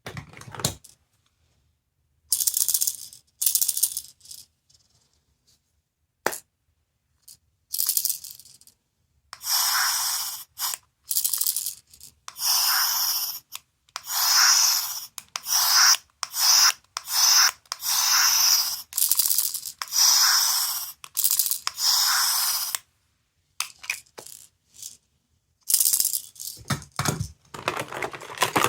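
Small electronic sound toy from a capsule-toy machine being played over and over: short recorded sound effects from a tiny speaker, each about a second long and cut off sharply, with gaps between them, and a few clicks and low knocks from handling the toy near the end.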